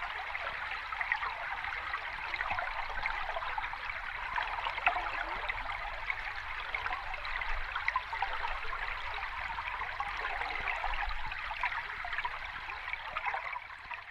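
Moving water: a steady, dense trickling and splashing made of many small drops and bubbles, which starts fading out near the end.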